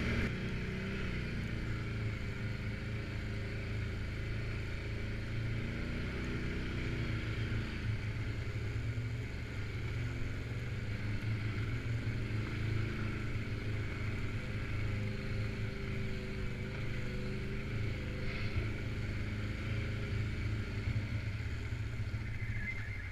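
Suzuki KingQuad 750 AXi ATV's single-cylinder engine running at low, fairly steady revs while crawling off-road, its pitch rising and falling only slightly.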